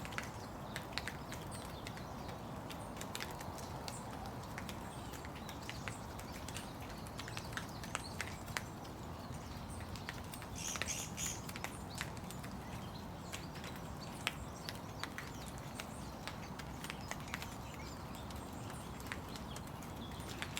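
Steady rain falling, with scattered drops ticking irregularly, and a brief high sound about halfway through.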